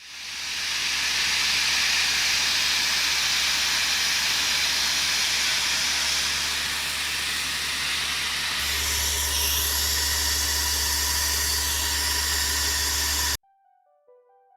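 A loud, steady hissing rush that shifts in tone about two-thirds of the way through and cuts off abruptly near the end, followed by a few soft keyboard notes.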